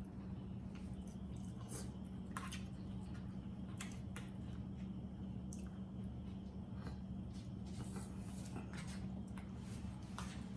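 People eating close to the microphone: chewing and scattered short clicks, over a steady low hum.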